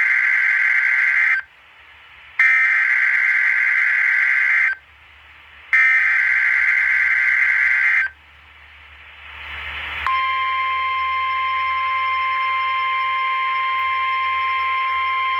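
Emergency alert data header: three harsh, buzzy bursts of about two seconds each with short gaps between them. About ten seconds in, a steady, high-pitched NOAA Weather Radio warning alarm tone starts, signalling that a severe thunderstorm warning is about to be read.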